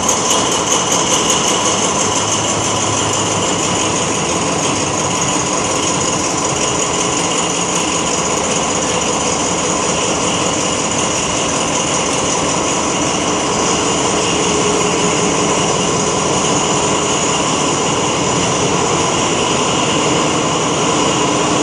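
MÁV M47 diesel locomotive's Pielstick engine running steadily after a cold start: a loud, even drone with a steady high whine over it. A rhythmic clatter dies away in the first second or two.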